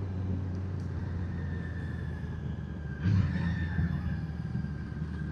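Motorcycle engine running steadily while riding, with road and wind noise. The engine gets louder about three seconds in.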